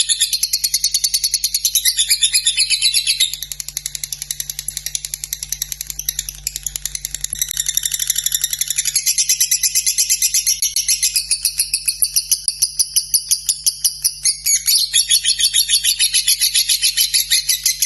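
Lovebird singing a long unbroken chattering song: a fast run of sharp, high-pitched ticking notes. It drops quieter for several seconds before swelling again.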